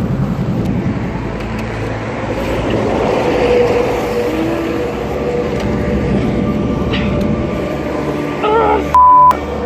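Motorcycle running with road and wind noise, then a short, loud, steady high beep about nine seconds in.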